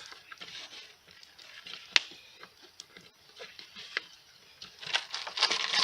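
Plastic bottle handled while a cord is tied around its neck: scattered light clicks and taps, a sharper click about two seconds in, then a burst of plastic crinkling near the end.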